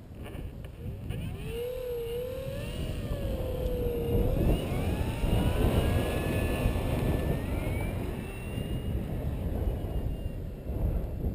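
Electric RC aerobatic plane's brushless motor and propeller whining, wavering in pitch with the throttle and then rising about four seconds in, over heavy wind buffeting on the microphone.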